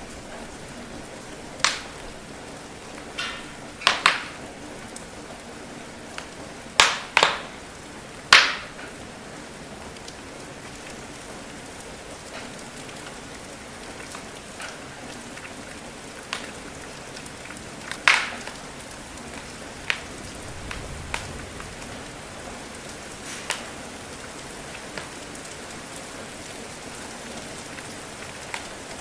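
Steady rain with a wood fire crackling over it: scattered sharp pops, a cluster of the loudest in the first nine seconds and another about eighteen seconds in.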